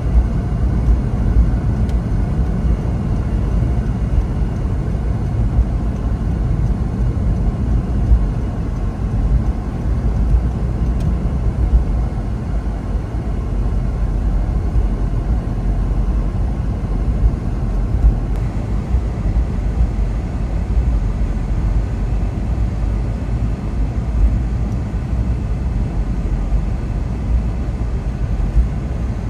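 Car driving: a steady low rumble of engine and tyre noise, unchanging throughout.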